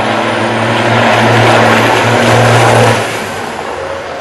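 Racing truck engine passing at speed: a held low engine note that swells up and then drops away sharply about three seconds in.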